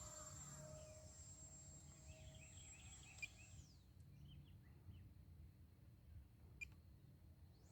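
Faint, high steady whine of an Arrows F-86 Sabre RC jet's electric ducted fan at a distance, dropping sharply in pitch a little past halfway through.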